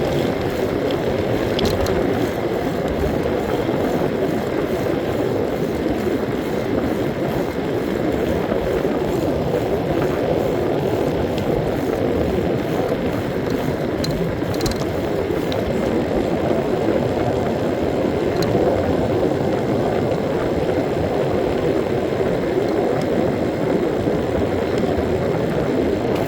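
Steady rush of wind and road noise on the microphone of a moving bike, even and unbroken throughout.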